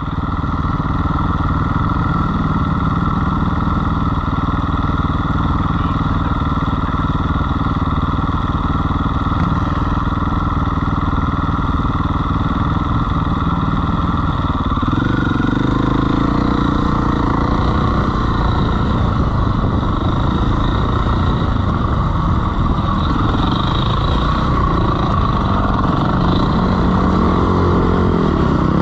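Dirt bike engine running continuously while being ridden, its note changing about halfway through.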